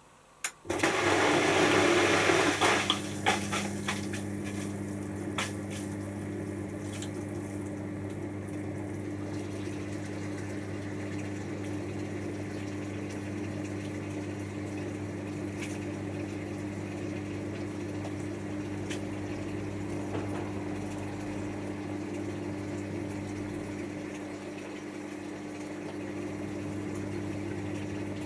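Hotpoint HF8B593 washing machine starting a water stage of its rinse: a sudden loud rush of water about half a second in, settling into a steady hum with water running through.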